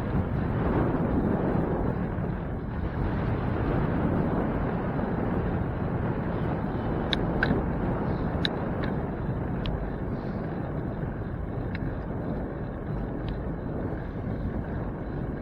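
Wind rushing over a bicycle rider's microphone, a steady rumbling noise, with a few short high ticks about halfway through.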